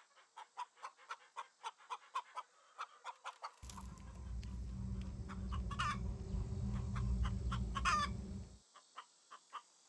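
A bird calling in a quick, even series of short notes, about three a second, with two louder wavering calls near the middle and a low rumble underneath from about a third of the way in until near the end.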